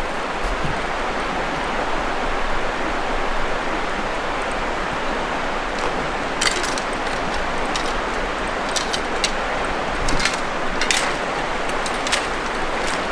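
River water rushing steadily, with a scattering of short sharp clicks from about halfway through.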